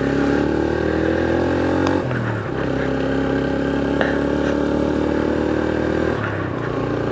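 Motorcycle engine running under way, its pitch rising as it accelerates, then dropping briefly about two seconds in as it changes gear before holding steady; the pitch drops again near the end.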